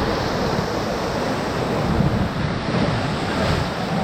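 Whitewater rushing steadily around a raft running a Class III rapid, with wind buffeting the microphone.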